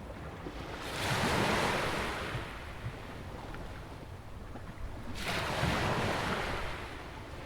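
Atlantic Ocean waves breaking by a jetty on a sandy beach. Two waves come in about four seconds apart, the first about a second in and the next about five seconds in, each a rush that swells and then fades. A low wind rumble on the microphone runs underneath.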